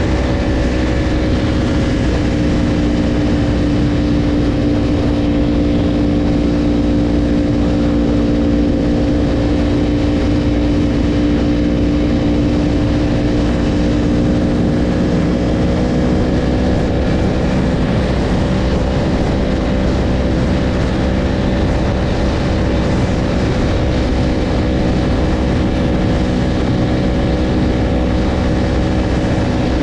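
Yamaha YZF-R1's inline-four engine running at a steady cruise, its note holding nearly constant, with a small dip in pitch that rises back again about halfway through, over a steady rush of wind and road noise.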